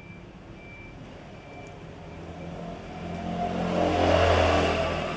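Electric fan running at high speed, a steady motor hum with rushing air. The sound swells louder about four seconds in, then eases off.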